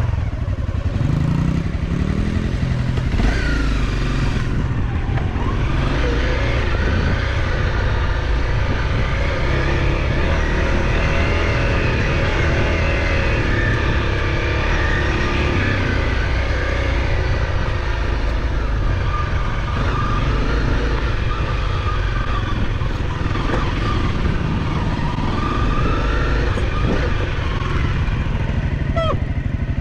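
Off-road motorcycle engine running steadily under way, with low rumble throughout and its pitch wavering as the throttle changes.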